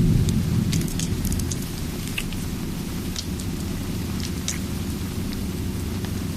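Steady rain with a low thunder rumble dying away over the first two seconds, and sharp crackles from a wood fire scattered throughout.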